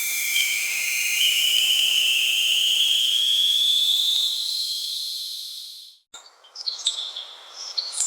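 Nature ambience: a high, steady insect-like hiss with a long whistling tone that slowly rises in pitch. It fades out about five seconds in, cuts off, and is followed by scattered short chirps and clicks.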